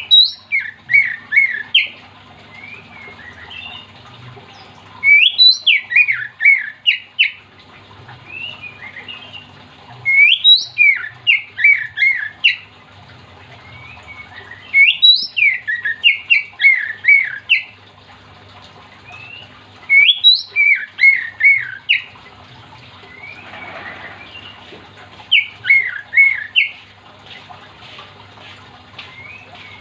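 Oriental magpie-robin singing: loud phrases about every five seconds, each a sharp rising note followed by a quick run of falling notes, over a faint steady hum.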